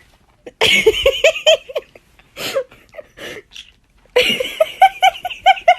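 Laughter, in two bouts of quick repeated ha-ha syllables, with a couple of short laughs between them.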